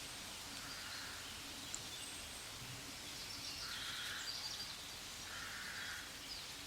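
Quiet background ambience: a low steady noise with faint, soft sounds recurring about every second and a half.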